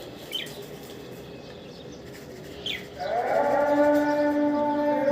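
Two short, falling chirps from budgerigars, then about three seconds in a loud, steady held tone with overtones sets in and carries on.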